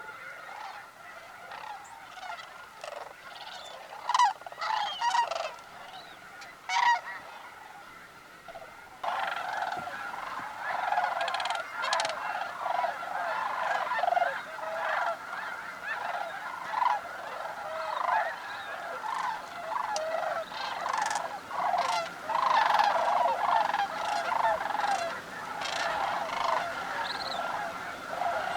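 A large flock of sandhill cranes calling: scattered loud calls at first, then a dense chorus of many overlapping calls that becomes much louder about nine seconds in.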